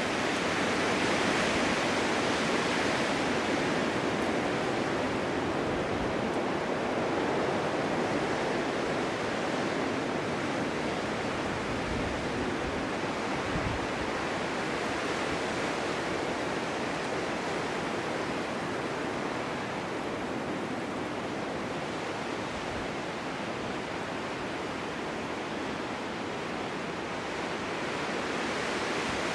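Strong winter wind rushing steadily in gusts, in a snowstorm, swelling a little early on and easing off midway.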